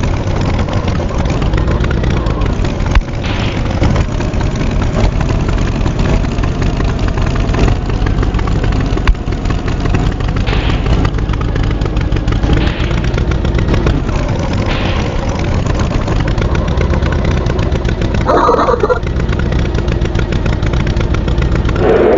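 Cartoon tractor engine running steadily and loudly, with a short higher-pitched sound about three quarters of the way through.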